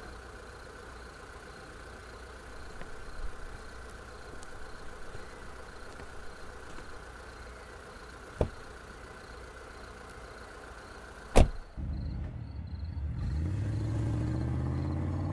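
A car engine idling steadily, broken by a sharp knock about halfway through and a louder one about three quarters of the way in. After the second knock a low, rising tone of background score swells in.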